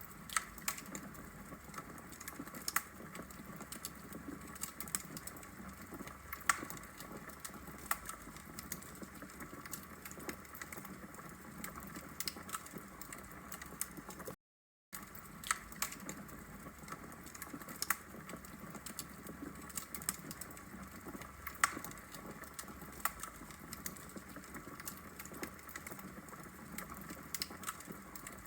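Wood fire crackling: a steady hiss of burning logs with frequent sharp pops and snaps. A momentary gap of silence comes about halfway through.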